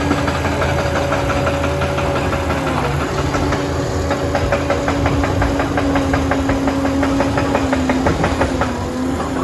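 Liebherr 746 crawler dozer's engine and drive running with a steady whine that dips in pitch near the end. Its steel tracks clank rhythmically, about five clanks a second, through most of the stretch.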